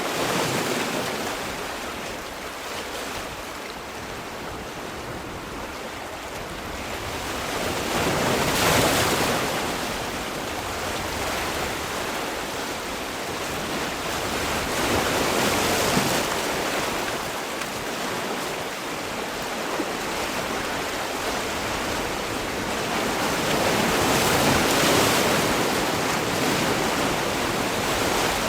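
Sea waves rolling in and breaking as steady surf, swelling to a louder wash three times, roughly every eight seconds.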